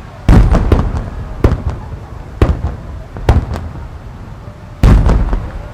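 Aerial firework shells bursting in a star mine barrage: a string of sharp booms at uneven intervals, the loudest about a quarter second in and again near the end, each trailing off in a rumbling echo.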